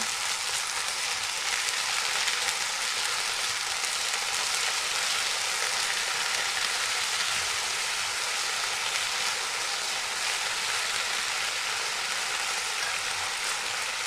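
Spinach and crab sticks frying in hot oil with soy sauce in a frying pan: a steady, even sizzle.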